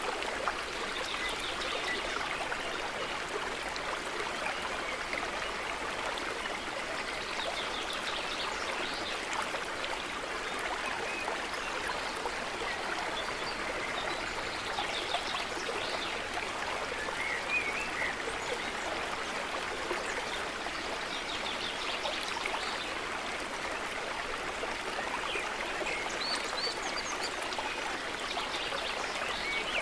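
A small stream running steadily over stones, with birds chirping and trilling now and then above the water.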